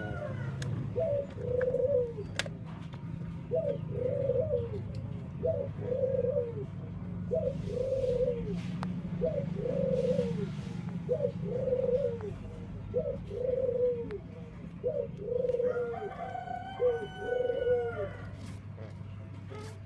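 Puter dove (Barbary/ringneck dove) cooing over and over, a steady run of short low coos about one to two seconds apart. This is an unusual-sounding call, which the keeper wonders may be a defect.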